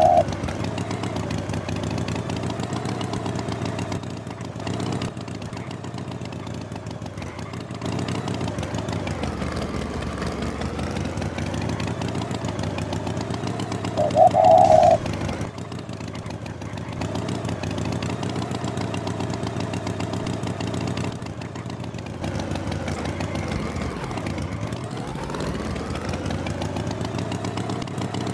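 An engine running steadily, its pitch drifting slowly up and down and dipping deeply once near the end. A short, loud, high tone sounds about fourteen seconds in.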